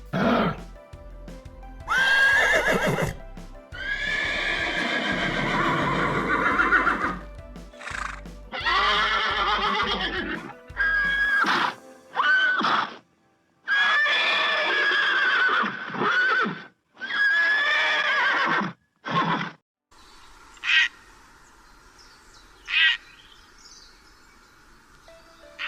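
A series of loud, drawn-out animal calls with a wavering, arching pitch, one after another, over background music; the calls stop about three-quarters of the way through, leaving a quieter stretch with a couple of brief sounds.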